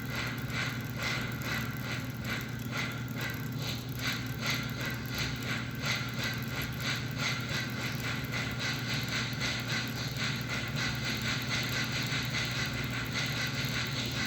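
Model steam locomotive's RailSounds electronic steam chuff, synced to the wheels by a chuff trigger, hissing strokes at about two a second that quicken as the engine speeds up until they run together into a near-steady hiss. A steady low hum runs underneath.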